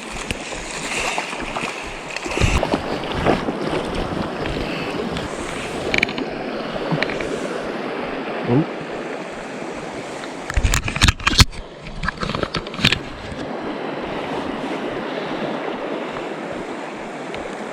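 Steady rush of flowing creek water. A quick cluster of sharp thumps comes a little past the middle.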